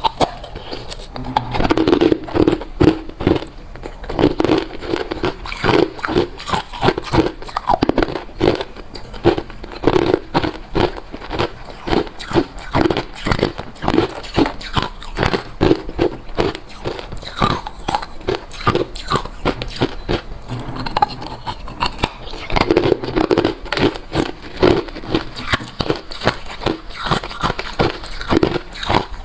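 A person biting and chewing hard refrozen crushed ice, with rapid, continuous crunches several times a second.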